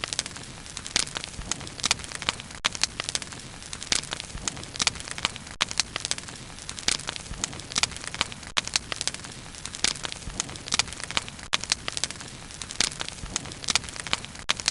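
Wood bonfire burning, with dense, irregular sharp crackles and pops over a soft, steady hiss of flame.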